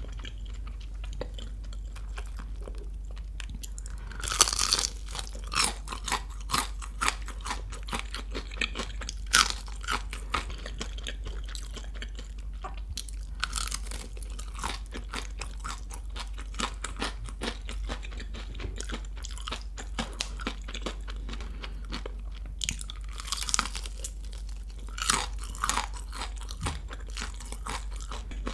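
Close-miked crunching and chewing of crispy nacho-crusted fried chicken. Steady crunching of the coating, with several louder crunchy bites spread through.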